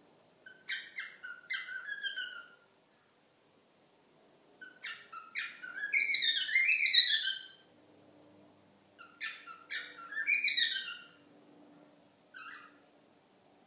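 A pet cockatiel calls in four bursts of quick chirps and warbling whistled notes that glide up and down in pitch. The third burst is short, and the last is a brief chirp near the end. The loudest burst comes about six to seven seconds in.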